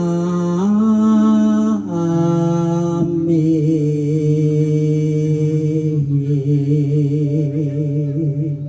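Javanese bawa, the solo sung introduction to a gendhing: a singer draws out long held melismatic notes in free rhythm, with sustained instrumental tones behind. The notes hold steady at first and from about three seconds in waver with vibrato.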